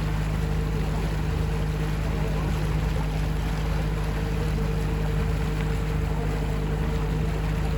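River tour boat's engine running steadily: a constant low hum with a steady higher drone above it, over an even wash of water and wind noise.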